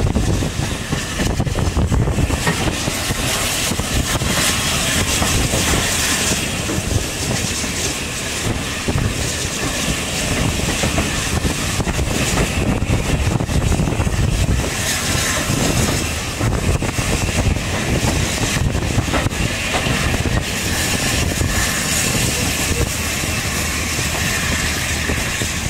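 Passenger train of a steam railway running along the track, heard from an open carriage window: a steady rumble of wheels on rail with wind on the microphone.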